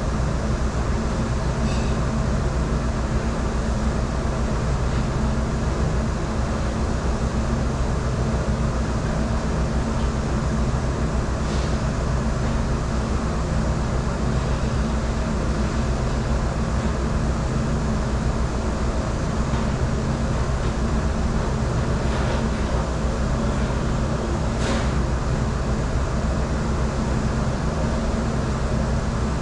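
Steady machine drone of commercial dish-room equipment running without a break, a low hum under an even rushing noise. A few faint clinks of dishes come through, about two, eleven and twenty-five seconds in.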